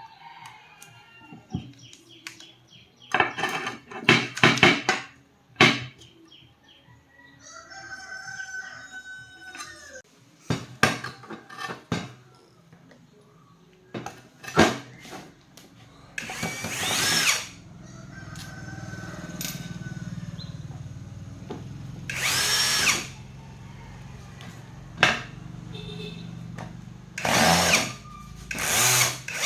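Metal parts and tools knocking and clattering during work on a burnt-out Makita angle grinder. A rooster crows twice in the second half, over a steady low hum.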